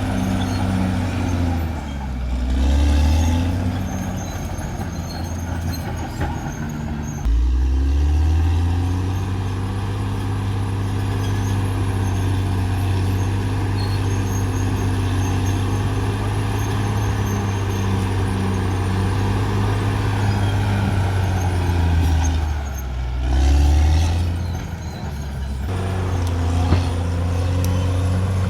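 Caterpillar D6R XL bulldozer's diesel engine running steadily. Its note dips and picks up again twice, a couple of seconds in and again near the end.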